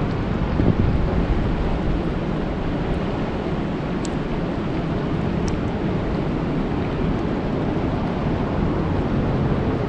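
Steady rain falling on a lake, an even wash of noise, with a few faint high ticks about four and five and a half seconds in.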